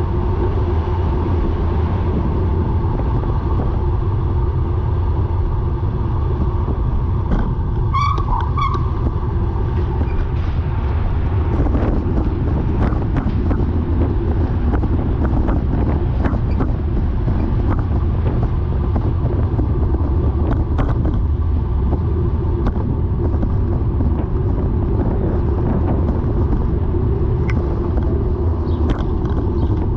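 Steady low rumble of a bicycle being ridden, mostly wind and tyre noise, with faint irregular clicks scattered through the middle and near the end. The clicks fit the bike's rotational clicking, which the rider hopes is not the bottom bracket. A short two-note chirp comes about eight seconds in.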